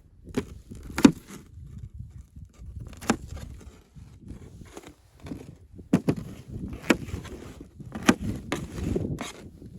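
A string of sharp, irregular knocks and clatters with scraping and shuffling in between, the loudest knock about a second in, typical of wood or gear being handled.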